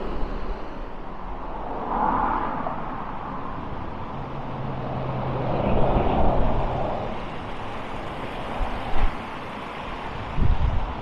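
Road traffic passing close by: a few cars go past, swelling and fading, about two seconds in and again around six seconds. A couple of short low thumps come near the end.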